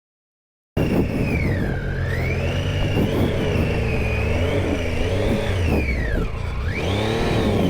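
Triumph Tiger 800 XCa's three-cylinder engine running under way, its revs rising and falling with the throttle, with a high whine that climbs and dips along with the revs. The sound cuts in abruptly just under a second in.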